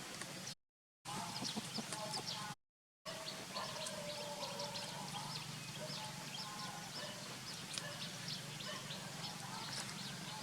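Short animal calls over many small clicks and crackles, with a steady low hum beneath. The sound cuts out completely twice, briefly, in the first three seconds.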